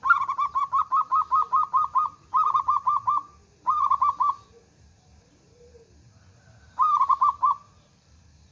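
Zebra dove (perkutut) cooing in runs of quick, evenly spaced notes. A long run of about ten notes opens, two shorter runs follow, and after a pause a final short run comes near the end.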